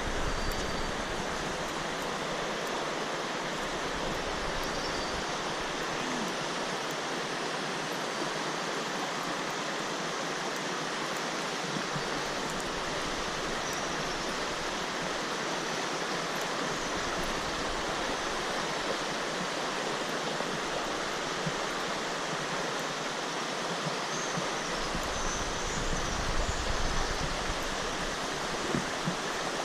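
Rushing water of a mountain stream or waterfall, a steady even rush. Near the end a low rumble of wind on the microphone comes in briefly.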